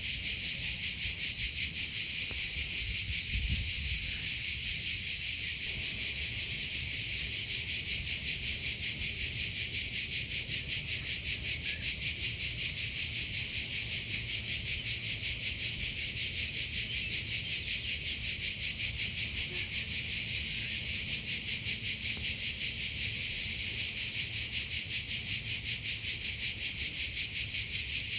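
A cricket chirping without a break, a high-pitched song pulsing at an even, rapid rate.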